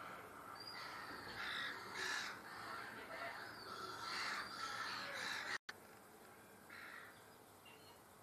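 Birds calling repeatedly with harsh, cawing calls. The sound cuts out for an instant a little past halfway and is fainter afterwards.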